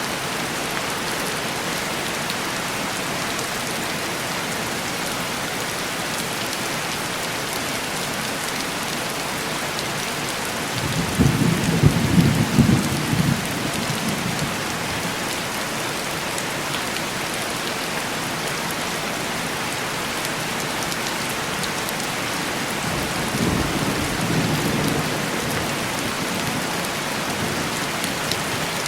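Steady heavy rain on window glass. A low rumble of thunder swells about eleven seconds in and lasts a few seconds, and a second, softer rumble follows near the end.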